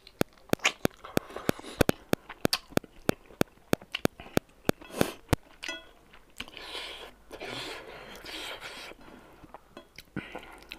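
A man chewing a mouthful of rice and smoked pork with open-mouth smacking, sharp wet clicks at about four a second; after about five seconds the clicks stop and softer chewing noises follow.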